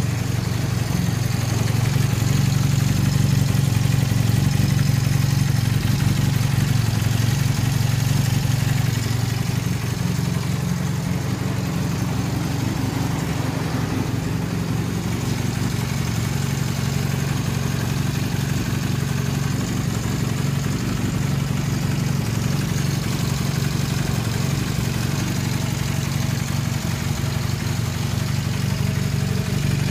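Honda Hawk motorcycle's parallel-twin engine idling steadily after starting.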